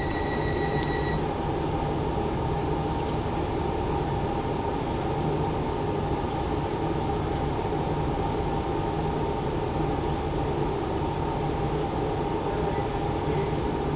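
Steady low hum of a train standing at a station platform, with a high beeping tone that stops about a second in.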